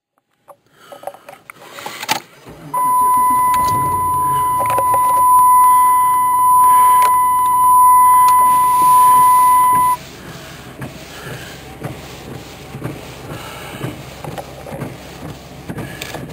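A steady high-pitched electronic beep held for about seven seconds, then cut off abruptly, over a low rumble.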